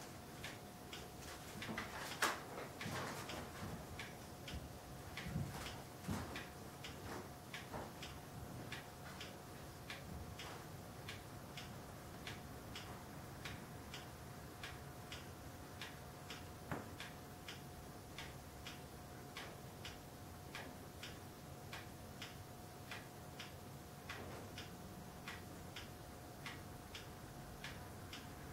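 Clock ticking steadily, about two ticks a second, under a faint steady hum, with a few louder knocks in the first few seconds.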